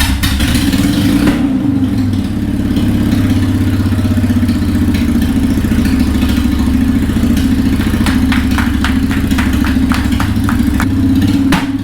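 Motorcycle engine just started and running, revved in the first second or so and then settling into a steady idle, with a run of sharp pops about eight to eleven seconds in.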